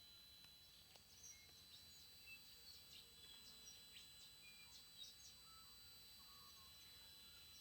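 TriStar TS-MPPT-60 solar charge controller giving off a faint, steady high-pitched squeal, with birds chirping over it during the first few seconds.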